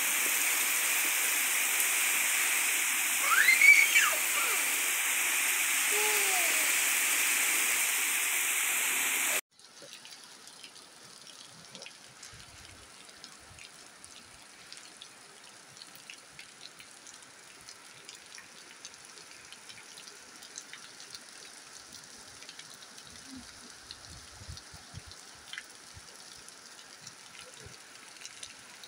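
Heavy rain pouring down in a steady loud hiss, with a short high call that rises and falls about three to four seconds in. After an abrupt cut about nine seconds in, much quieter rain falls, with scattered drips and patters.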